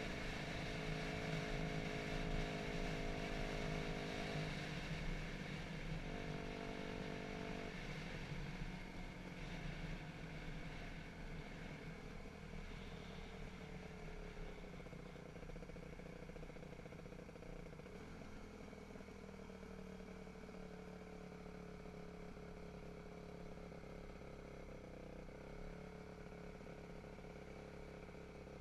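Dirt bike engine running. Its sound is strongest for the first several seconds, then grows quieter with a slowly falling note, and settles into a steady, lower hum for the rest.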